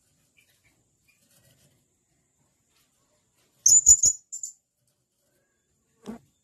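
Blue-crowned hanging parrot (serindit) giving shrill, very high, sharp calls: three quick notes about four seconds in, then a fourth just after. A short, quieter knock follows near the end.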